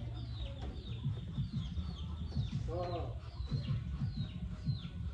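Birds calling: a repeated short, high chirp that falls in pitch, about twice a second, with one lower call about three seconds in.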